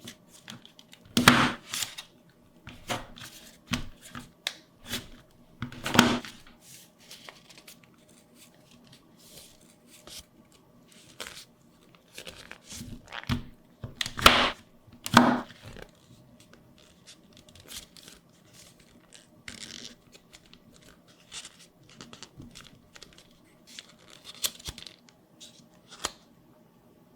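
Paper being torn and crinkled by hand in irregular strokes, with louder tears about a second in, around six seconds in, and twice around fourteen to fifteen seconds in.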